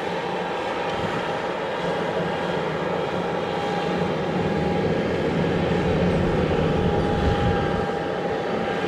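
Kubota DC-70 Plus rice combine harvester's diesel engine running steadily under working load, with a constant whine over the engine note.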